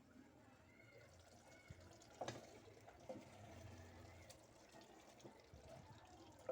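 Faint sizzling and bubbling of chicken cooking in its own juices in a clay pot, with a couple of light clicks about two and three seconds in.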